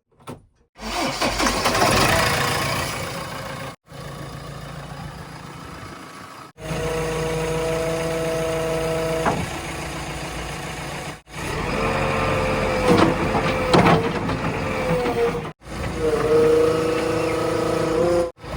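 Heavy diesel engines running and revving in several short clips cut together, with the engine pitch rising and falling under load.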